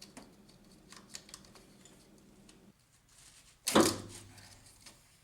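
Light scattered clicks and taps of hand tools and engine parts being handled during disassembly, then one loud sudden clatter a little past halfway that fades over about a second.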